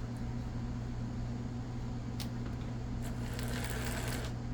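Small electric motor and gears of an HO-scale Mantua locomotive running in reverse during a test run after oiling, a steady hum. There is a single click about two seconds in and a brief rise in whirring noise near the end.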